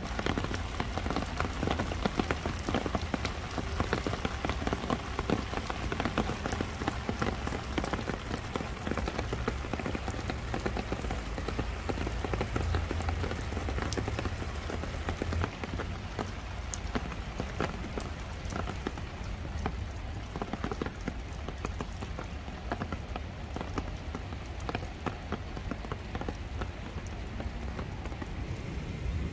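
Steady rain falling, with many individual drops ticking sharply close by over a low rumble.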